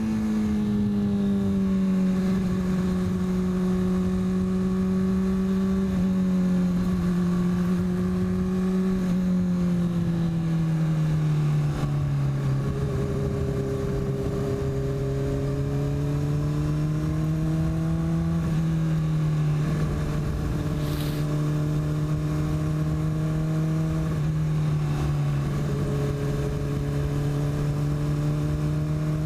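Motorcycle engine and exhaust running steadily at cruising speed with a low rushing noise underneath. Its pitch drops about a third of the way through as the bike slows, then holds nearly level with small rises and dips.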